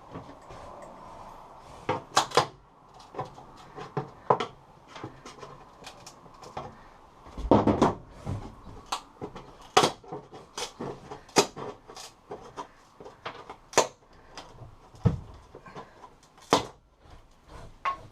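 Irregular knocks, clacks and taps of wooden interior pieces being handled and pried loose, with a heavier thump about halfway through.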